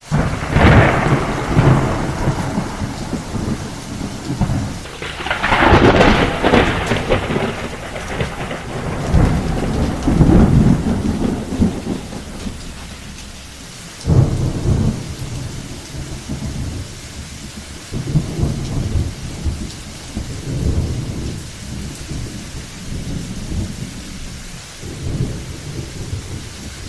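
Thunderstorm: heavy rain falling steadily under repeated peals of rolling thunder. The loudest crash builds about five seconds in, another comes a few seconds later, a sudden peal breaks about halfway through, and the rumbles are weaker near the end.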